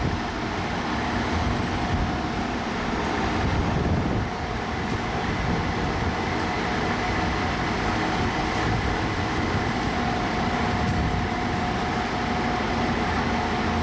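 Heavy vehicle engine running with a steady low rumble and a faint steady whine over it, with no siren sounding.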